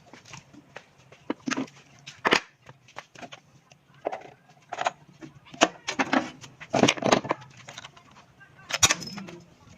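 Irregular clicks and knocks of tools and small metal parts being handled during small-engine repair work, with a few sharper knocks and a faint steady low hum underneath.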